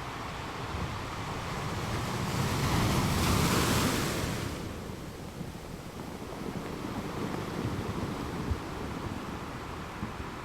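Ocean waves breaking on a beach: one wave swells up about two seconds in, crashes and washes out by about five seconds, then low steady surf continues.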